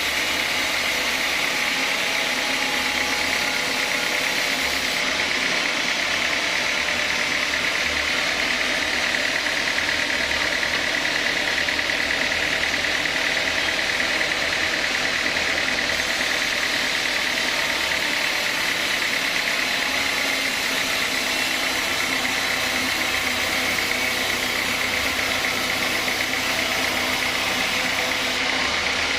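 Sawmill saw machinery running steadily while working an old teak log, an even, unbroken mechanical noise with a constant high whine.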